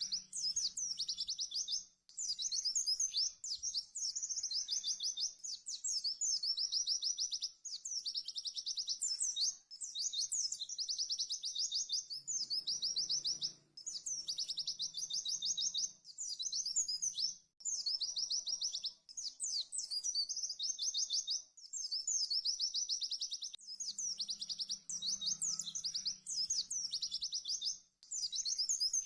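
Pleci (white-eye) singing a fast 'tembakan' song: rapid high-pitched trills in phrases of one to two seconds, repeated over and over with short breaks between them.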